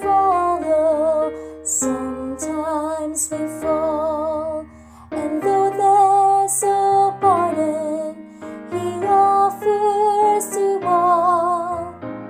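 A woman's alto voice singing sustained, held notes with vibrato over piano accompaniment, with a short break about five seconds in.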